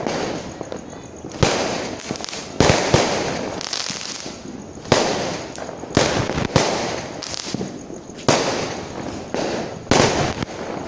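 Fireworks going off one after another: about ten sharp bangs at uneven intervals, each trailing off in a fading echo before the next.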